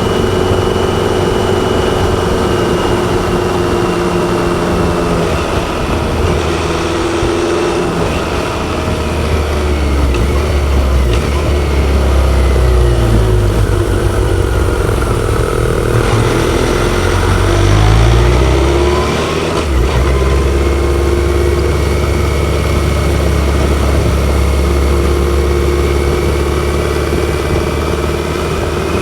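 BMW K1100LT motorcycle's inline-four engine running under way, its note rising and falling a few times midway through, then settling to a steady drone.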